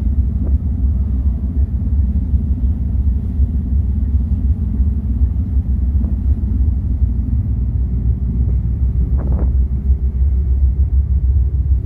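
Steady low rumble aboard a ferry under way: the ship's engine drone mixed with wind on the microphone.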